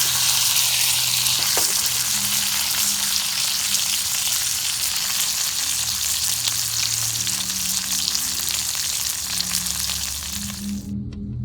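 Steak sizzling in a frying pan over a wood fire, a steady crackling hiss. The sizzle cuts off suddenly near the end.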